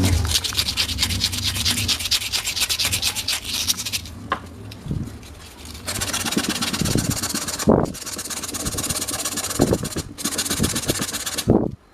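Hand sanding of old fan parts: rapid abrasive rubbing strokes with a hiss. It comes in several stretches broken by abrupt cuts, with a quieter spell about four seconds in.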